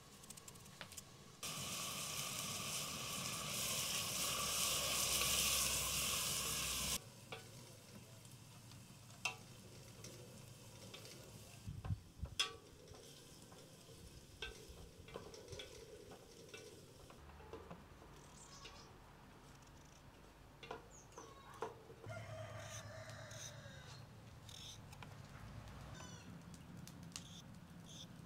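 Onions frying in hot oil in a pan, sizzling loudly for about five seconds before cutting off suddenly. Then scattered light clicks and scrapes of a knife and peeler working potatoes, with a few short high chirps.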